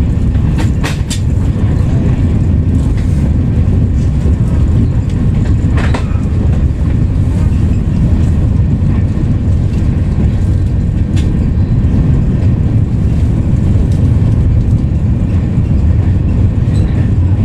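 Interior cabin noise of a high-speed train running at speed: a steady low rumble of wheels on rail, with a few faint clicks.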